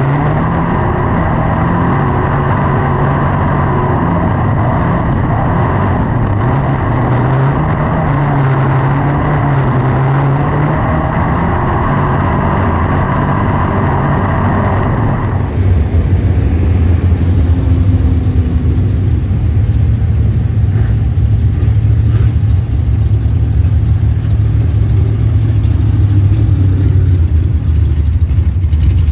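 Race car engines running, the pitch rising and falling as the throttle comes on and off. About halfway through there is an abrupt change to a louder, deeper engine sound.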